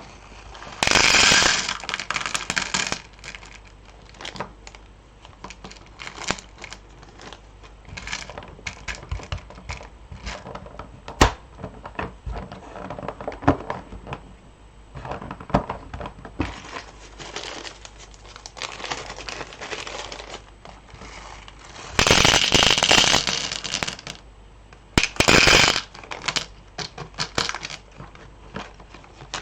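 Loose beads being handled and sorted, clicking and ticking against one another and their containers in quick, irregular runs. Three louder, longer noisy bursts come about a second in and twice near the end.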